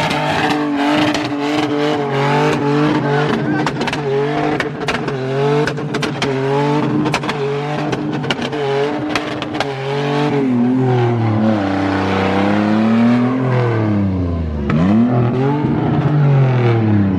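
Drift car engine revved hard, its pitch bouncing up and down about twice a second with sharp exhaust pops and crackles. After about ten seconds the revs fall away, drop deep once and climb again.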